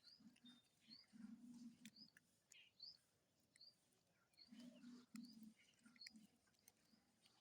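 Small birds chirping faintly: short, high chirps that sweep upward, repeating about every half second to a second.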